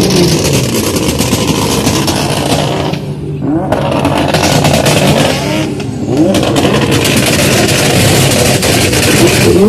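Modified drift car engine revving hard and loud with a coarse exhaust note, easing off briefly about three seconds in and again about six seconds in.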